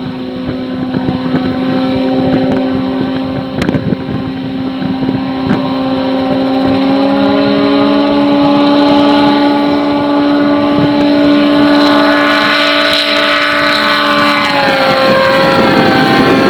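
Propeller aircraft engine running with a steady drone, its pitch rising slightly about seven seconds in and dropping back near the end.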